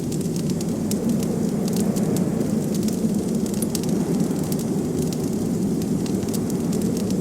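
Wood fire crackling, with frequent small sharp pops, over a steady low rush of blizzard wind.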